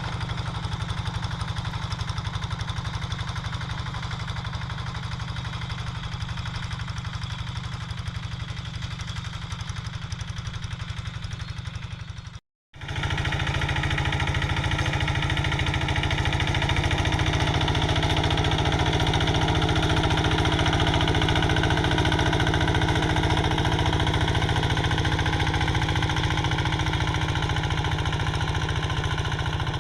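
Quick G3000 two-wheel hand tractor's single-cylinder diesel engine running steadily with a rapid, even knock. The sound breaks off for a moment about twelve seconds in and comes back louder.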